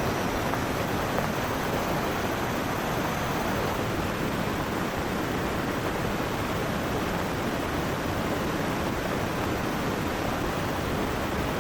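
Heavy rain falling steadily together with rushing river water: a dense, even hiss with no let-up.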